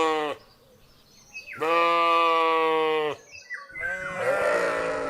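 Sheep bleating: a long, level bleat about a second and a half into the sound, the tail of another at the very start, and a rougher, hoarser bleat near the end.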